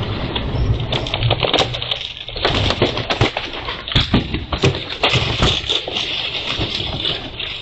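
Many sharp cracks and taps in quick, irregular succession.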